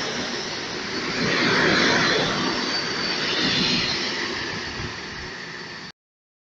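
Loud rushing rumble of a PKP Intercity passenger train's coaches rolling past on the rails, wheels clattering and hissing over the track, with a faint high-pitched squeal in the middle. The sound cuts off abruptly to silence about six seconds in.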